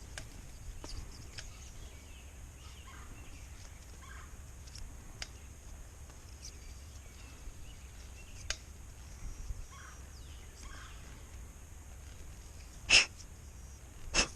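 Wild turkey calling: two short, loud calls near the end, the first much louder. Before them, faint short bird calls and small clicks.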